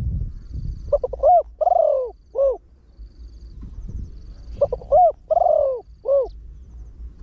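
Spotted dove cooing: two phrases of deep, arching coos about three seconds apart, each a quick short note or two, then a longer drawn-out coo and a final short one. Faint high chirps and low rumble lie underneath.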